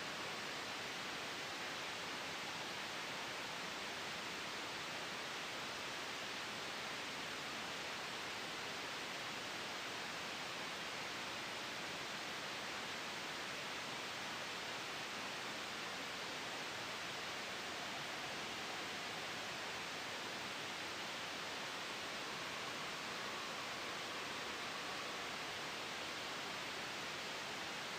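Steady, even hiss of soft white noise blended with a gentle wind sound, made for sleep and noise masking. It holds without any change.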